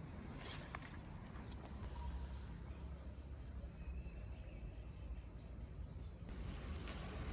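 An insect trilling: a steady, high-pitched, finely pulsing trill that starts about two seconds in and cuts off abruptly near the end, over a low rumble.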